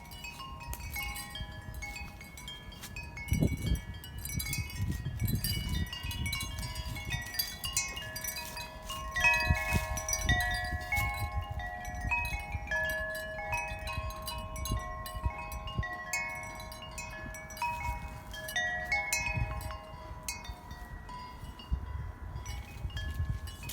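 Wind chimes ringing, their metal tubes struck irregularly by the wind so that many overlapping tones sustain and fade. Gusts of wind rumble on the microphone underneath.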